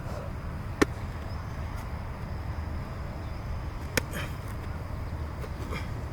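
Two sharp smacks of a football striking hands during a passing drill, about a second in and about four seconds in, the first louder, over a steady low rumble.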